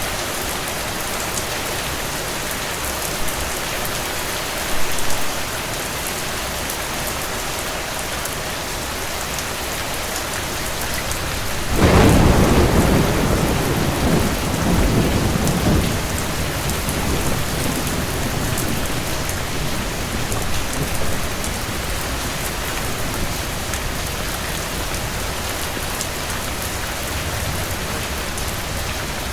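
Steady rain falling. About twelve seconds in, a sudden clap of thunder rolls and fades over several seconds.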